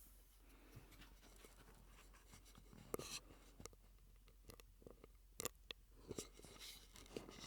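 Faint, irregular wet mouth clicks and pops made through a straw, close to the microphone, with a louder click about three seconds in and another about five and a half seconds in.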